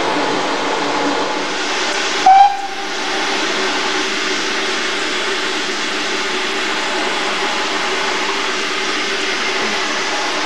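Steady running noise of a steam-hauled heritage train, heard from an open carriage window. About two seconds in, a brief, louder single tone cuts through.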